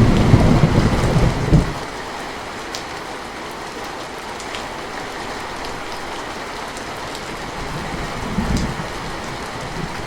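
Steady rain falling, with distant thunder. A low rumble dies away about a second and a half in, and a short, weaker rumble comes near the end.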